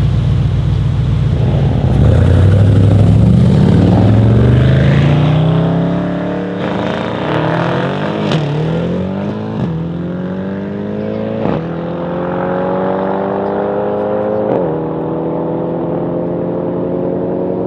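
Mercedes-AMG E63 S's tuned twin-turbo V8 launching hard about two seconds in and accelerating away. The engine note climbs steeply in pitch, then drops and climbs again at each of four quick upshifts, fading as the car pulls away.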